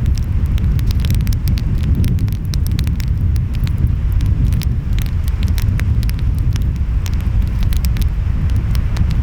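Wood fire crackling, with many short, irregular pops, over a steady low rumble of ocean waves and wind.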